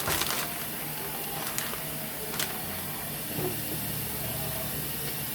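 Kitchen tap running steadily, cold water pouring over eggs, with a few clicks.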